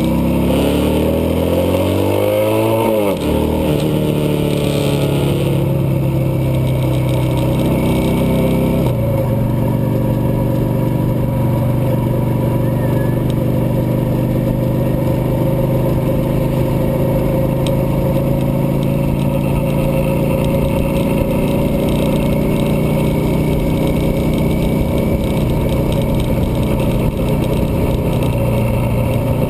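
Cruiser motorcycle engine pulling through the gears, its pitch rising and dropping back at each shift in the first few seconds, with another change about nine seconds in. It then runs at a steady cruising speed.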